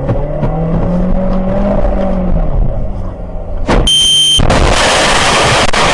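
A vehicle engine running and revving, rising and falling in pitch. About three and a half seconds in it is cut by a click and a short high beep, followed by a loud, steady rushing noise.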